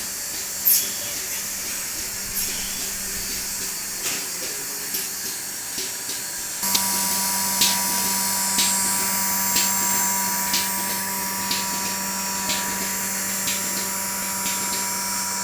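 DeLaval BMS4 bucket milking machine running with a steady hiss. About a third of the way in it gets louder and a steady hum sets in, with a regular click about once a second.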